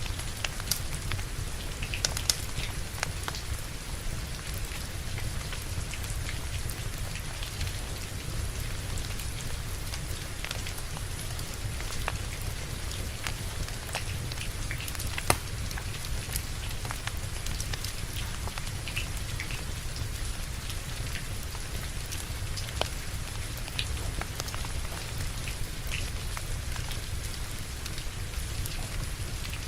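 Steady rain falling, with a wood fire crackling: scattered sharp pops, one louder pop about halfway through.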